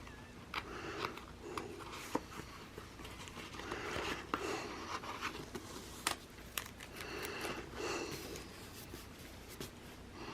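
Paper and sticker sheets being handled: soft rustling and crinkling with several light, sharp clicks.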